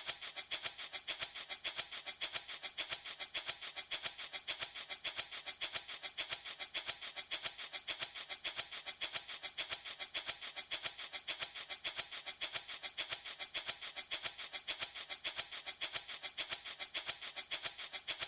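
Handmade wooden baby rattle shaken steadily in an even rhythm, several bright rattling strokes a second with no break.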